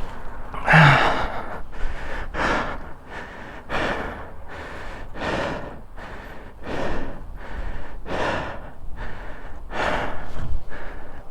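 Heavy breathing close to the microphone: a person gasping and blowing out hard breaths, about one every second to second and a half, catching their breath after a motorcycle crash.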